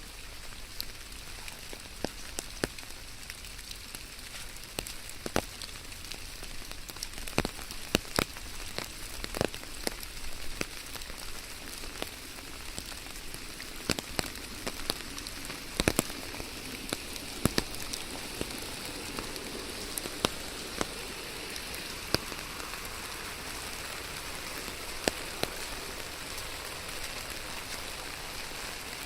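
Rain falling steadily: an even hiss with many sharp, irregular drop impacts, some much louder than the rest.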